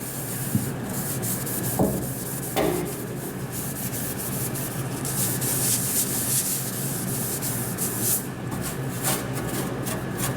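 Green 3M scouring pad scrubbing the inside surfaces of a TurboChef Tornado oven, a continuous rough rubbing, to lift stubborn stains loosened by oven cleaner. It gets harsher and brighter about halfway through.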